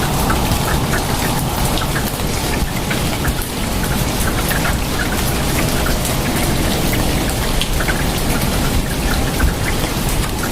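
Steady rain falling, with many separate drops ticking on nearby surfaces over a dense, even wash of rain noise.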